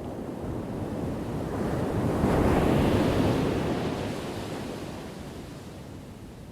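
Ocean waves crashing: one wave swells, breaks at its loudest about two and a half seconds in, and fades away as it washes out.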